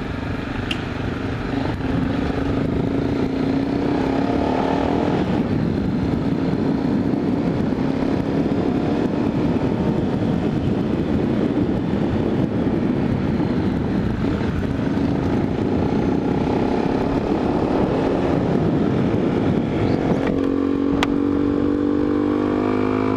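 Honda XRE 300's single-cylinder engine running at a fairly steady pitch while riding, mixed with heavy wind noise on a helmet-mounted camera. Near the end the engine note turns clearer and steadier.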